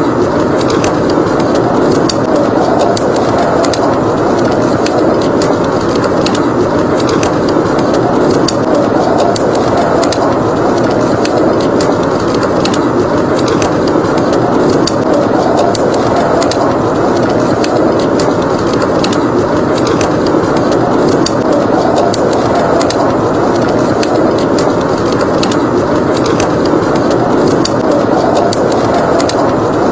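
Howling blizzard wind as a steady, loud rush, with a wood fire crackling over it in frequent sharp, irregular pops.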